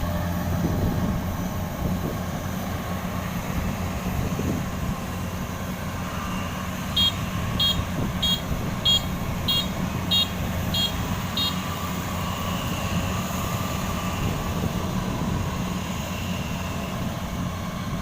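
Kubota combine harvester's diesel engine running steadily under load. About seven seconds in, a high electronic warning beeper sounds eight times, roughly 0.6 s apart.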